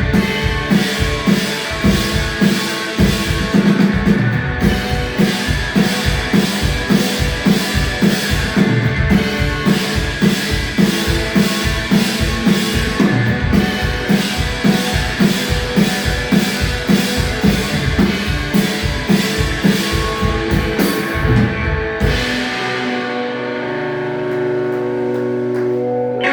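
Blues-punk duo playing live rock: a fast, driving drum-kit beat under electric guitar. About 22 seconds in the drums stop and a held guitar chord rings out to the end.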